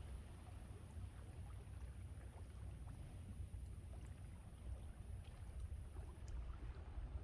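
Sea waves washing on the shore, with a steady low rumble of wind buffeting the microphone.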